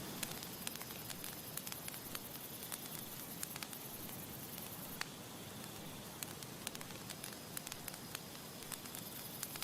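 Campfire crackling: irregular sharp pops and snaps from burning wood, several a second, over a steady soft hiss.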